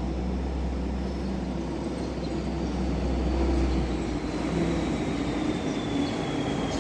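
A truck's engine running with a steady deep rumble that drops away about four seconds in, with a faint high whine slowly falling in pitch.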